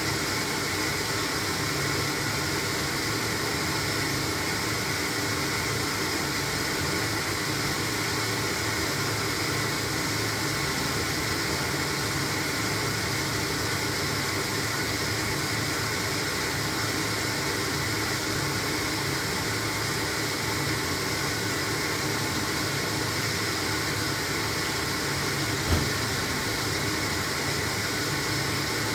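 LG washing machine running a load of blankets: a steady hum and wash noise, with one short knock near the end.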